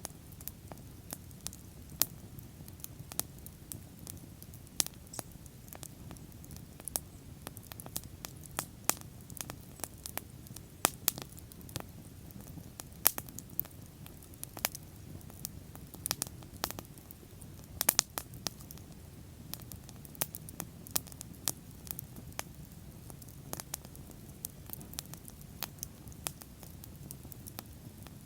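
Wood fire crackling: irregular sharp pops and snaps, several a second, over the low steady rumble of the burning flames.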